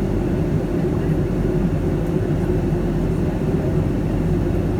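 Steady low cabin noise of a Boeing 757-200 on descent: engine and airflow hum heard from inside the passenger cabin.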